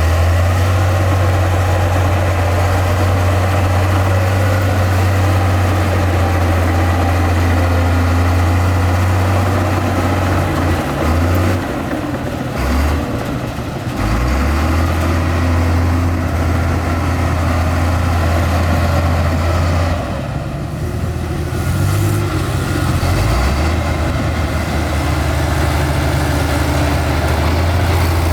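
Diesel engine of heavy earthmoving machinery running under steady load, with a deep, steady hum. The engine note drops briefly twice, about 11 and 20 seconds in.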